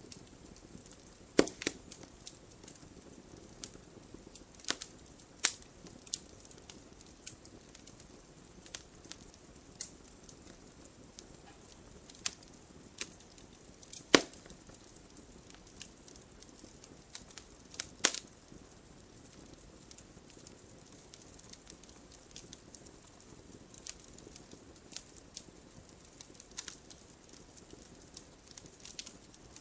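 Wood fire crackling: irregular sharp pops and snaps over a faint steady hiss, with the loudest snaps about a second in and around the middle.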